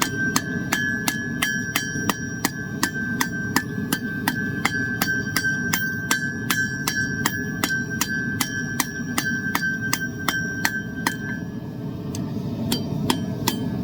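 Hammer striking hot steel on an anvil in steady blows, about three a second, with the anvil ringing on between them, as a forged spoon's handle is drawn out. The blows pause briefly near the end, then resume.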